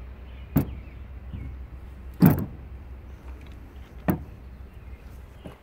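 Three sharp knocks from the metal parts of an electric lawnmower motor being handled, about a second and a half apart; the middle one is the loudest and heaviest clunk. A low steady hum runs underneath.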